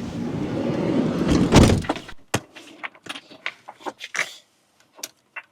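A door shuts with a loud thud about a second and a half in, and the outside noise cuts off sharply. Scattered light clicks and knocks follow in the quiet.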